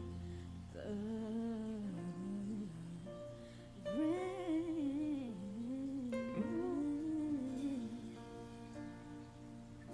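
Recorded song playing: a female singer's soft, gliding vocal line over held accompaniment chords, at the gentle ending of a pop ballad. The deep bass drops out about a second in.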